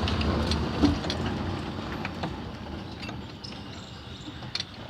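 A low rumble, like a vehicle going by, slowly fading away, with scattered light clicks and clinks of tools and metal parts.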